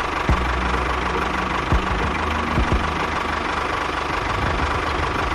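Small engine running steadily, with a few short sharp knocks over it.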